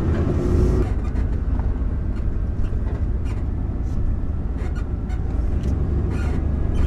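Steady low engine and road rumble inside the cab of a 22-foot RV driving slowly, with scattered light clicks and rattles. An engine drone fades out about a second in.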